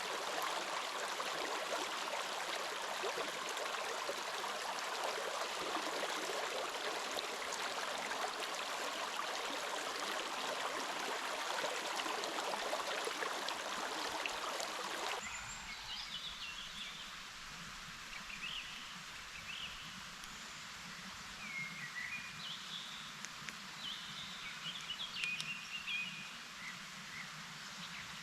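Steady rushing of a flowing stream. About halfway through it cuts off abruptly to a quieter background with scattered short bird chirps.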